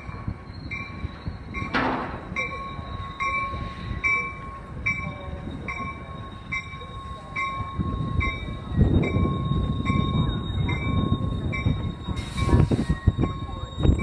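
NJ Transit passenger train arriving at a station platform, its bell ringing steadily about twice a second over a steady high whine. The rumble of wheels on the rails grows louder in the second half as the cars roll past, with a brief hiss near the end.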